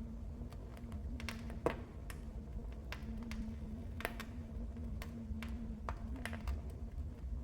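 Wood fire crackling in a fireplace: irregular sharp pops and snaps over the low, steady rumble of the burning fire, the loudest pop about a second and a half in.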